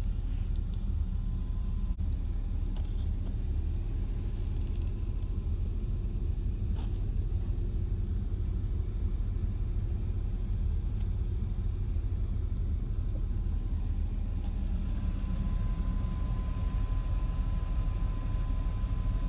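Steady low rumble of a car on the road, heard from inside the cabin: engine and tyre noise while driving.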